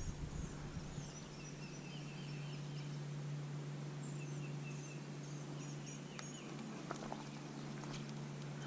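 Faint outdoor ambience of small birds calling, with short scattered chirps and warbles over a steady low hum, and a couple of faint clicks near the end.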